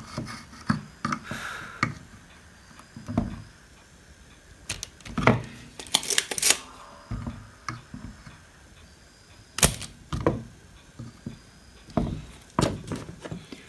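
Scattered sharp clicks and knocks of tools and a circuit board being handled on a workbench while the main capacitor is being removed from a power supply board, with a small cluster of clicks around the middle.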